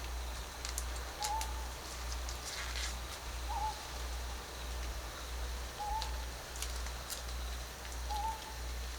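A bird giving one short call about every two and a half seconds, five times, over a steady low rumble.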